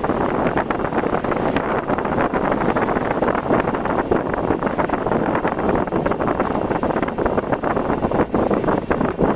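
Typhoon wind rushing steadily over a driving vehicle, with dense short crackles and road noise underneath.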